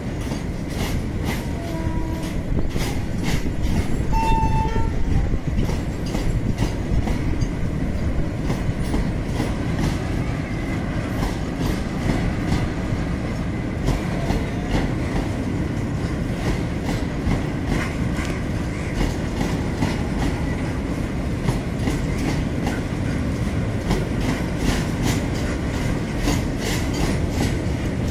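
A freight train of petroleum tank wagons rolling past with a continuous low rumble. Its wheels click over the rail joints in a steady clickety-clack.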